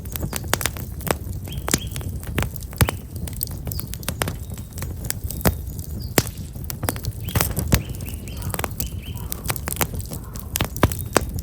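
Black locust firewood burning in an open fire, crackling and fizzing with frequent sharp pops. Small birds chirp a few times in the background.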